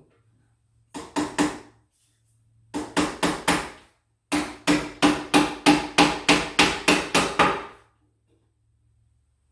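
Hammer driving nails into a wood closet organizer: three runs of quick, even blows, about four or five a second, the last run the longest at about three seconds.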